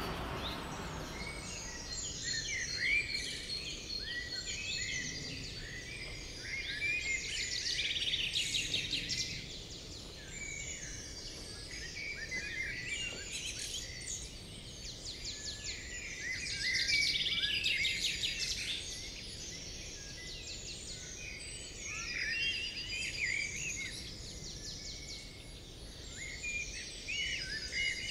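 Small birds chirping and twittering, many short overlapping calls and quick trills, over a steady low outdoor background noise.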